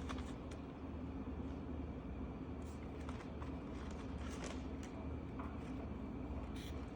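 Faint scratches and light taps of felt-tip markers on a colouring-book page, over a steady low hum.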